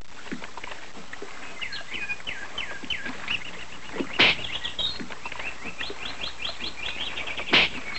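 Birds chirping, short repeated chirps that turn into a fast, even run of them late on, over the steady hiss and low hum of an old film soundtrack. Two louder, sharp sounds stand out, one about four seconds in and one near the end.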